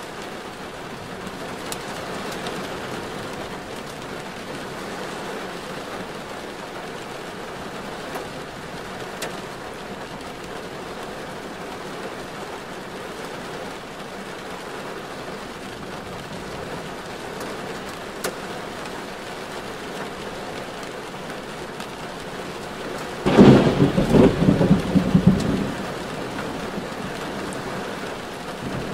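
Heavy rain falling on a moving car, a steady hiss. About three-quarters of the way through comes a loud, flickering rumble lasting two to three seconds.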